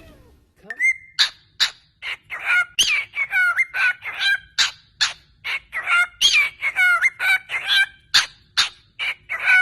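A bird calling in a rapid, varied run of short whistles, chirps and clicks, many sliding up or down in pitch, about two or three notes a second.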